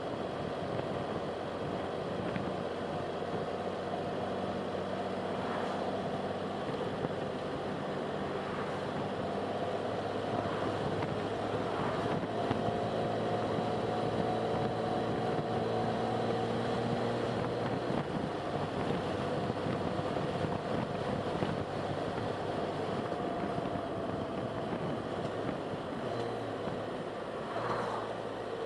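Car driving along a road: steady engine and road noise, with the engine hum shifting slowly in pitch.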